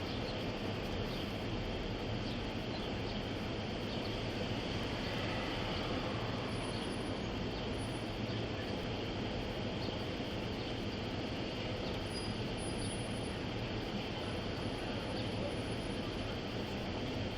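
Steady vehicle noise: an even low rumble and hiss with no changes.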